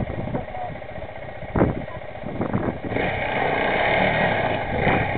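Enduro motorcycle engine running at idle, a steady low rumble, growing louder for about two seconds from three seconds in.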